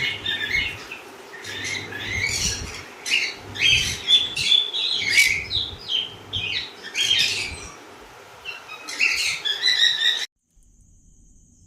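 Yellow-sided conure squawking and chattering in quick, repeated short calls. About ten seconds in the calls cut off abruptly, leaving a faint steady high-pitched whine.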